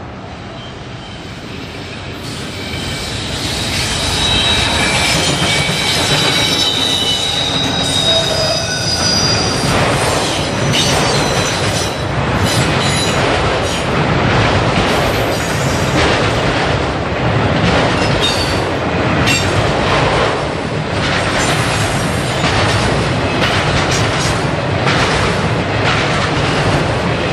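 Freight train of autorack cars rolling past close by, getting louder over the first few seconds as it arrives. High wheel-flange squeal rings out through the first several seconds. Then comes a steady run of clacks as the wheels cross rail joints.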